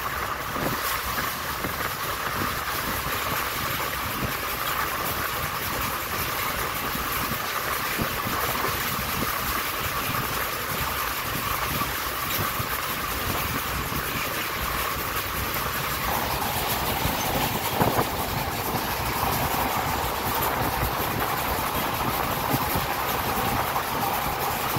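Passenger train running at speed, heard from an open coach window: a steady rumble of wheels on rail with the engine of its WDM-3A diesel locomotive running under it. A single sharp clack about eighteen seconds in.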